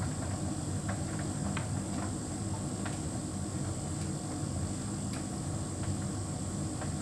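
Hotpoint heat pump tumble dryer running steadily: a continuous low hum with a thin high whine, and a few faint light clicks scattered through.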